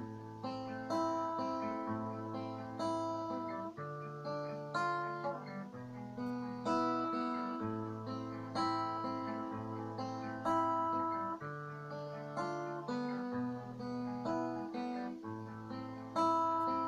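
Acoustic guitar playing an instrumental passage between the verses of a song, with no singing: chords strummed and picked, sharp strokes about once a second over a bass note that changes every one to two seconds.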